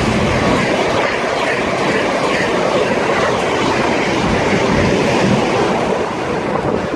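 A Renfe Euromed passenger train passing through the station at speed without stopping. Its wheels and the air it pushes make a loud, steady rush that eases slightly near the end.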